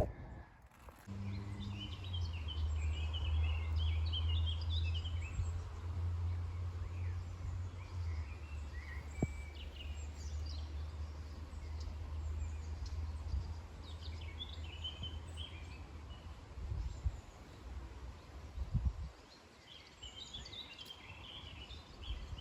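Small songbirds singing in short phrases on and off over a steady low rumble that fades out about two-thirds of the way through.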